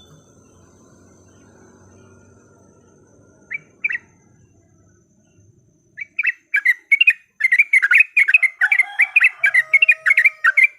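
Yellow-vented bulbul (trucukan) calling: two short notes about three and a half seconds in, then from about halfway a loud, fast chattering run of notes that cuts off abruptly at the end. This is the bird's excited fighting chatter, used as a lure call.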